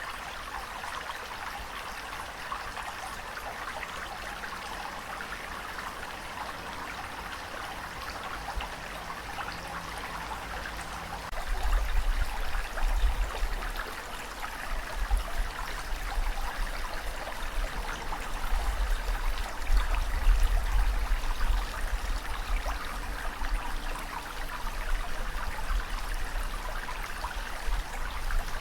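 Moving water rushing and trickling in a steady hiss; about twelve seconds in, a deep rumble joins it and swells unevenly.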